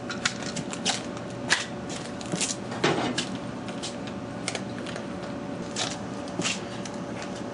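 Handling of a clear acrylic sheet and measuring tools on a workbench: irregular light clicks, taps and rustles, over a faint steady hum.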